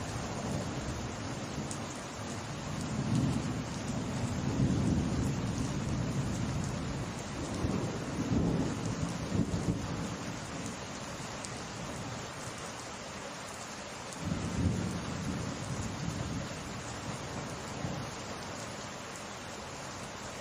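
Steady summer rain falling, with thunder rumbling low several times and a sharper, louder rumble a little past the middle.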